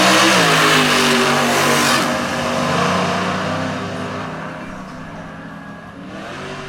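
Drag-racing car engine at full throttle going down the strip, loud for about two seconds and then fading away as the car pulls off.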